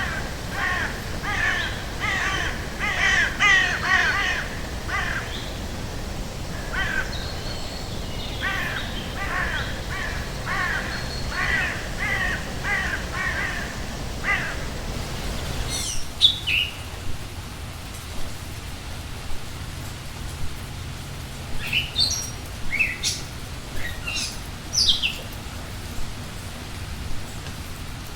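Forest bird ambience. For the first half a bird gives a fast run of repeated harsh calls. About halfway through the background changes abruptly, and scattered short high chirps and falling whistles follow.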